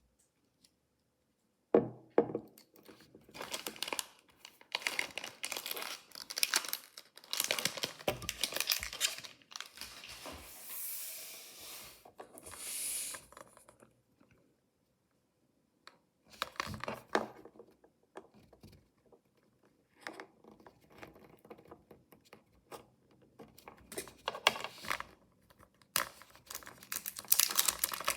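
Packaging being torn open and crinkled by hand during a mystery toy unboxing, in irregular bursts with a short pause partway through.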